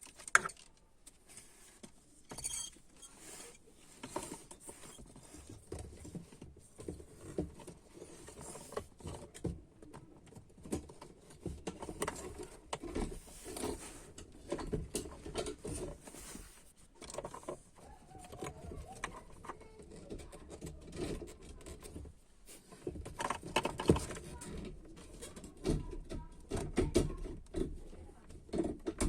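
Hands handling a fuel pump and its holder during reassembly: irregular clicks, knocks and small rattles of parts being fitted, with a sharp click just after the start.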